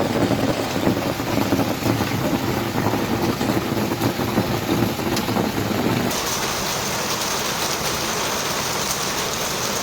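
Heavy rain pouring down in a storm. About six seconds in, the sound changes abruptly to a steadier, hissier downpour.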